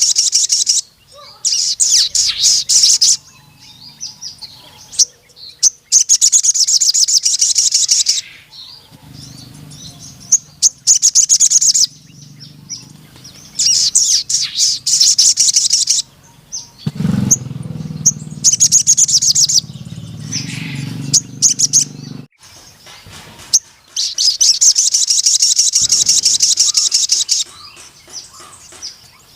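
A male crimson sunbird (sogon) in full song, giving long, very rapid high-pitched trilling bursts of one to three seconds each, repeated every few seconds. A low hum runs underneath twice, in the middle and later on.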